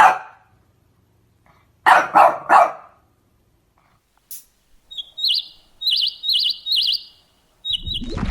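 Bird calls: three short harsh calls close together about two seconds in, then a run of about five quick high chirps in the second half.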